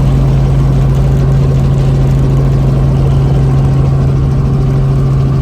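Tour helicopter's engine and rotor running, a loud steady drone with a strong constant low hum.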